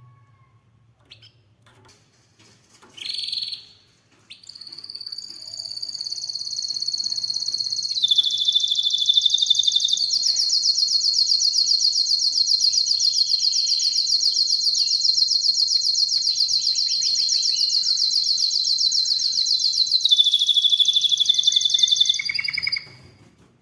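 Domestic canary singing. A few scattered short chirps give way, about four seconds in, to one long song of high, very rapid trills that switches to a new trill several times and stops shortly before the end.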